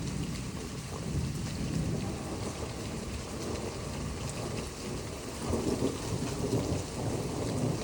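Steady rain falling with distant thunder rumbling low underneath, the rumble swelling a little past the middle.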